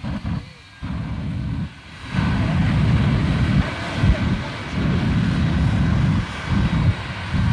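Shockwave jet truck's jet engines running in loud, uneven surges of deep rumble, as the afterburners are fired for its flame display.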